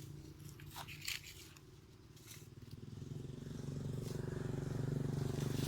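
An engine's steady hum that grows louder over the last few seconds, with a few faint clicks near the start.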